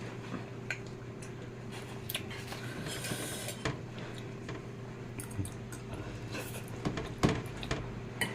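Utensils clicking and scraping lightly against a plate of fried noodles during eating, as scattered short clicks over a steady low hum.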